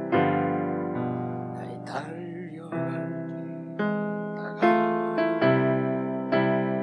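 Electric piano playing a slow hymn accompaniment: full chords struck about once a second, each ringing and fading before the next.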